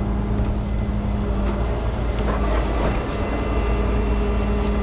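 Tow truck engine running steadily with an even hum, with a few faint clicks in the middle.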